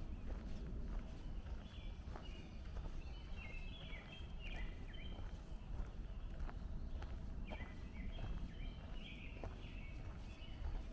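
A walker's footsteps on a trail, with songbirds singing short chirping phrases in the trees, busiest a few seconds in and again near the end.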